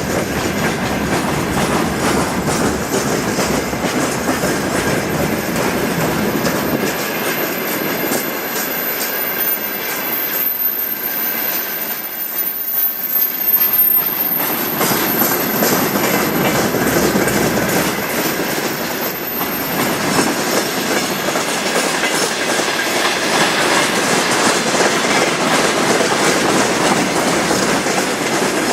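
Freight train rolling past, its wagon wheels clattering steadily over the rail joints, with a thin steady squeal from the wheels.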